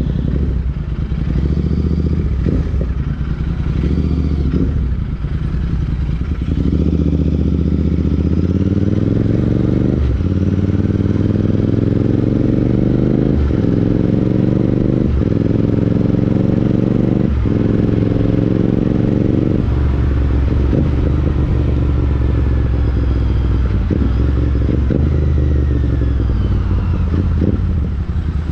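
Royal Enfield Interceptor 650 parallel-twin engine through a Chris Michael aftermarket exhaust, under way. Through the middle of the ride it accelerates through the gears: the revs climb and drop at each of about five upshifts. It then settles to a steadier cruise near the end.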